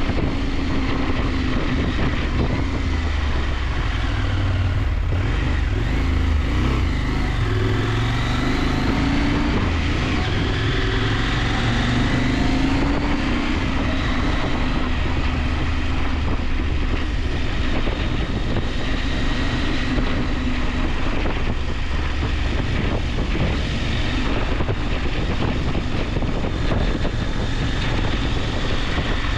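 KTM 890 Adventure's parallel-twin engine running under way, its pitch rising and falling with the throttle, over steady wind rush on the microphone.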